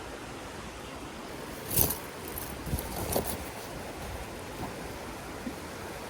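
A few sharp clicks and rattles about two and three seconds in, the first the loudest, over a steady background hiss.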